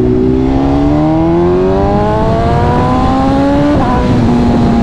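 BMW S1000RR's inline-four engine accelerating, its note climbing steadily for about three seconds, then dropping sharply with an upshift a little before the end and holding steady.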